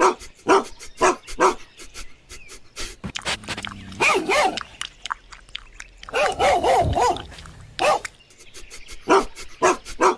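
An animal calling: a run of short, sharp calls about two a second, then two longer calls with a wavering pitch, then short sharp calls again near the end.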